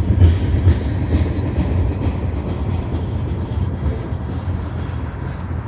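CSX mixed manifest freight train's tank cars rolling through a road crossing: a steady low rumble of wheels on rail with some wheel clicks, easing off a little toward the end.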